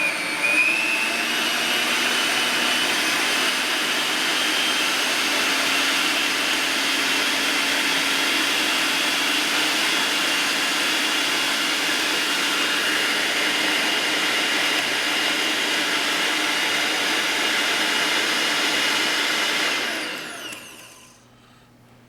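GoWise 800-watt electric meat grinder motor running steadily with a high whine while grinding beef. About 20 seconds in it is switched off and winds down to a stop.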